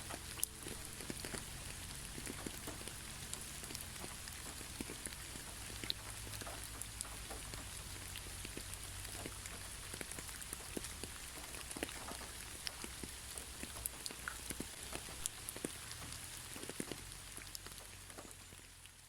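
Rain falling: a steady hiss with many scattered drop ticks. It fades out near the end.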